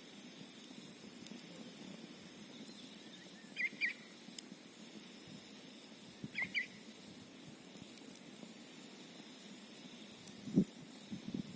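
Campfire burning with a steady hiss, two short high squeaks about four and six and a half seconds in, and a few wood pops near the end.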